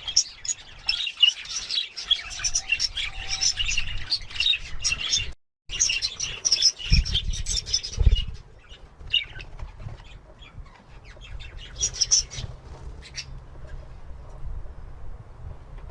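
Budgerigars chattering in quick high chirps, dense for the first half and sparser in the second, with a short gap about five seconds in. There are a couple of low thumps around seven and eight seconds in.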